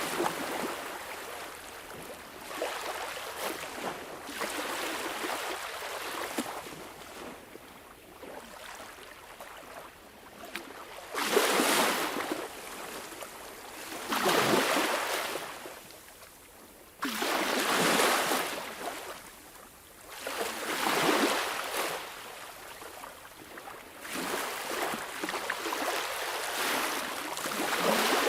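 Sea waves breaking and washing on shore, each surge swelling and fading every few seconds, with a quieter hiss of water between them.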